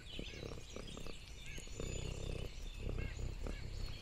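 A domestic cat purring, a low rumble that swells and fades in short stretches, with faint short high chirps behind it.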